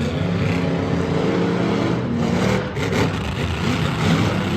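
Monster truck engines revving hard, rising and falling in pitch again and again.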